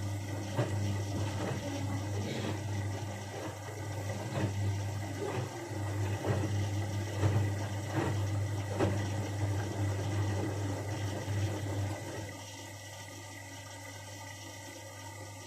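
Bosch Avantixx 6 washing machine working on water: a steady low hum with sloshing and gurgling and scattered knocks. It cuts off abruptly about 12 seconds in, leaving a quieter background.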